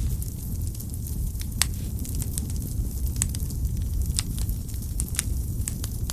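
Wood fire burning in a fireplace: a steady low rumble of the flames with irregular sharp crackles and pops from the burning logs, the loudest pop about one and a half seconds in and several more near the middle.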